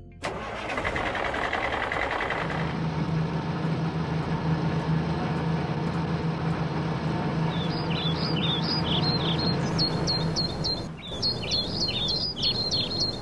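A truck engine running steadily with a low hum, then birds chirping in a quick series from about halfway through.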